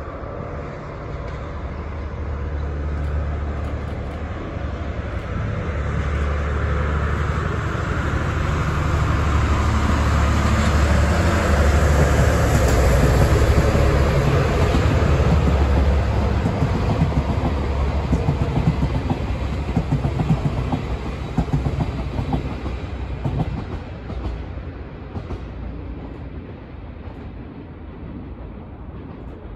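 A JNR-built DD51 diesel-hydraulic locomotive hauls a train of 12-series passenger coaches past. Its deep engine drone builds to its loudest about halfway through, then the coaches' wheels clatter over the rail joints and the sound fades away as the train goes by.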